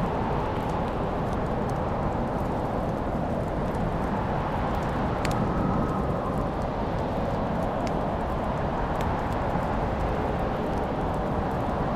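Wood fire burning in a fireplace: a steady low rush of flames with scattered sharp crackles and pops, the loudest about five seconds in.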